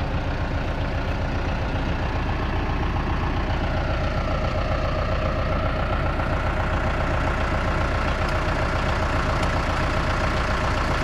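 Engine running steadily, its pitch rising slightly about four seconds in and then holding.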